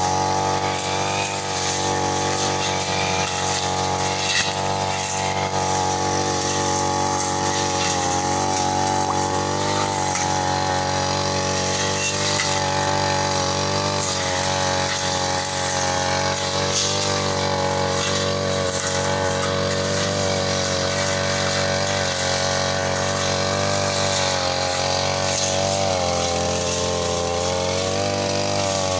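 Petrol brush cutter engine running steadily at high revs, its pitch wavering slightly as it cuts weeds and undergrowth.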